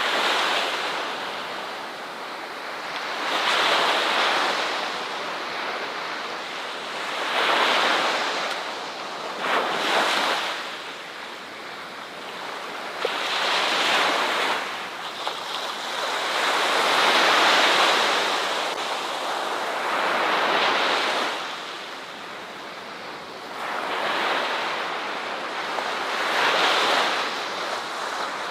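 Ocean waves breaking and washing up a shore. The surf swells and falls away in a slow rhythm, one surge about every three to four seconds.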